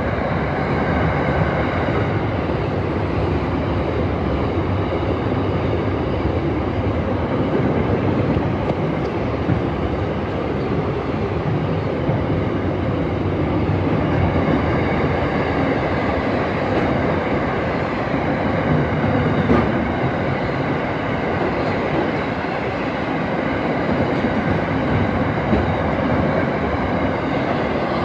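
Freight train rolling past, with a steady, loud run of wheels on the rails and no break.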